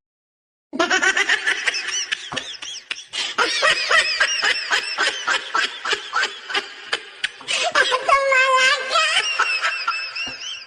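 High-pitched laughter: rapid, repeated peals of giggling that start just under a second in and carry on without a break.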